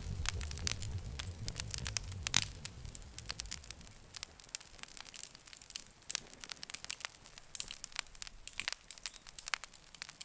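Campfire burning, wood crackling and popping in irregular sharp snaps, with a low rumble of flame during the first few seconds.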